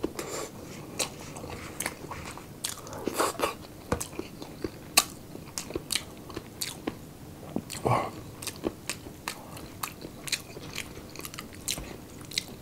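Close-up eating of pork sisig by hand: steady chewing with irregular crunches and wet mouth smacks.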